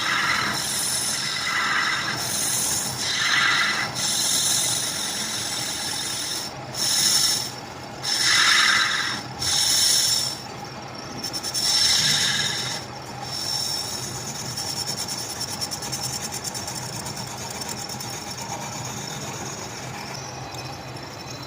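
Metal being worked in a machine shop: a run of rasping, scraping strokes about a second each, followed by a steadier, quieter hiss in the later part.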